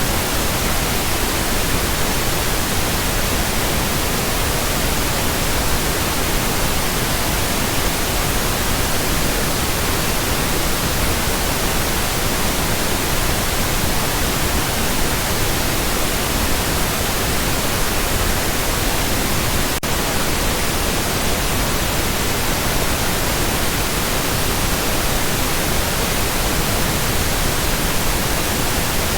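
Steady pink noise: an even, continuous hiss across the whole range, unchanging except for a momentary tiny break about twenty seconds in.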